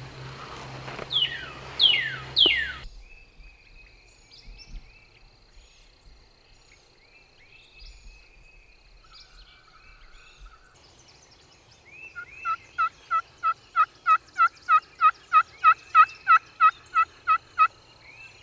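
A long, evenly spaced run of turkey yelps, about three a second and growing louder, in the second half, with a few loud falling calls near the start and faint songbird chirps in between.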